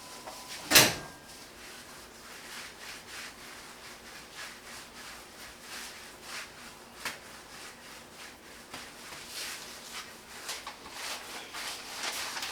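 Hands working dough on a wooden work table: soft rubbing and light taps, with one sharp knock about a second in.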